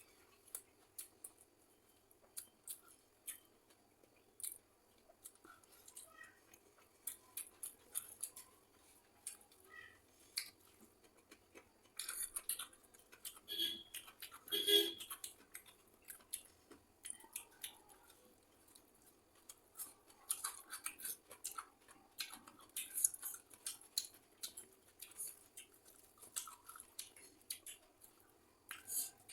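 Close-up eating sounds: irregular crisp crunches and wet mouth clicks of someone chewing crunchy food, with a denser, louder stretch of crunching about halfway through.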